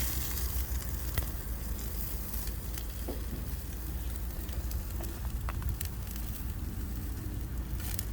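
Fish and chicken wings sizzling and crackling on a hot grill, a steady hiss with a few sharp pops, over a steady low rumble.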